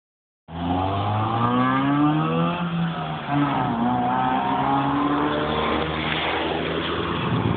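Honda Civic four-cylinder engine with an aftermarket intake and headers and a stock muffler, accelerating hard. Its pitch climbs, drops at a gear change about three seconds in, then climbs again.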